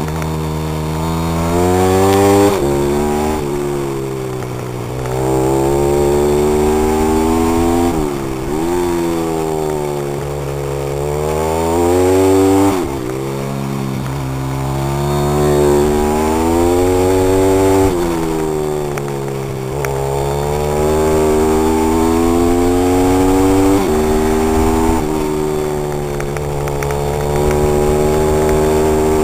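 Pit bike engine being ridden hard: revs climb repeatedly, drop sharply at each gear change, and fall away and pick up again several times as it slows and accelerates.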